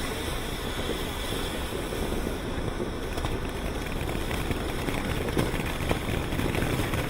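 Firework fountain burning with a steady rushing hiss, dotted with a few sharp crackles.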